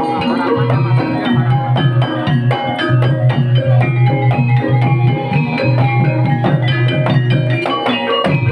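Banyumasan ebeg accompaniment music playing continuously: gamelan-style struck percussion and drum over keyboard, with a steady beat and a pulsing low note.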